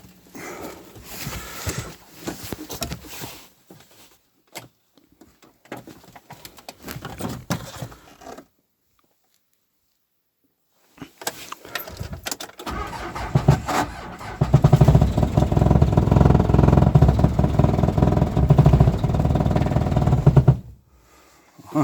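Clicks and rattles in the cab, then the Mitsubishi Pajero's 2.5-litre diesel being cranked by the starter for about eight seconds in deep frost, turning over without catching before the cranking stops. It is a failed cold start on a weak single battery.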